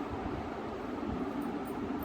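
Steady background hiss with a low rumble, even throughout.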